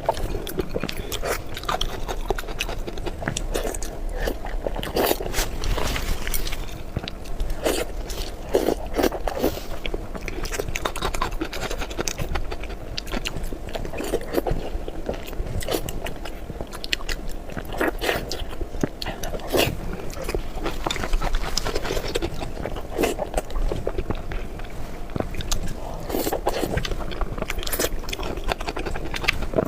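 Close-miked chewing and wet mouth sounds of someone eating soft pork brain in spicy red chili oil, made up of many small clicks and smacks.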